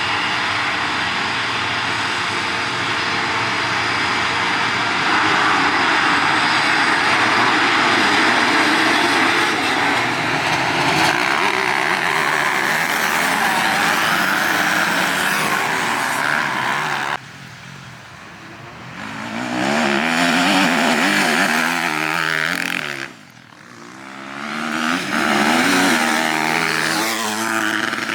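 Motocross dirt bike engines running hard on track, the revs rising and falling. The sound drops away suddenly about two-thirds of the way through, and again a few seconds later, before the revving climbs back.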